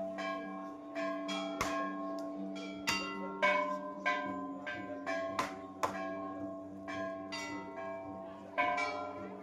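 Metal bells struck over and over, about twice a second at an uneven pace, each strike ringing on under the next.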